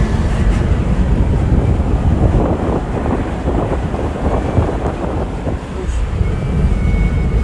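Wind buffeting the microphone: a steady low rumble and rush.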